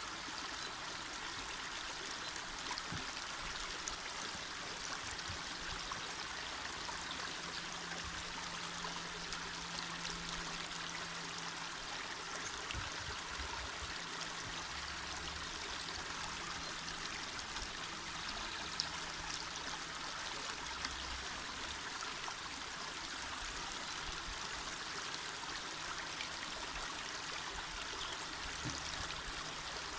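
Small mountain river flowing over stones: a steady rushing, babbling water sound with little splashes in it.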